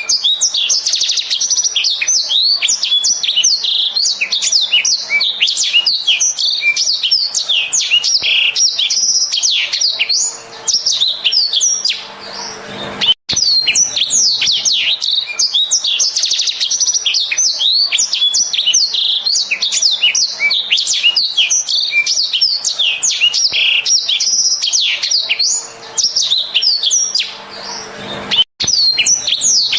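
A blackthroat (black-throated canary) singing a fast, continuous, high-pitched warbling song, with a short lull and an abrupt break about every fifteen seconds.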